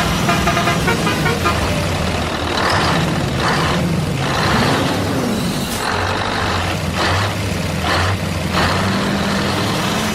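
A vehicle engine running with a steady low hum, with about six short bursts of hiss through the middle.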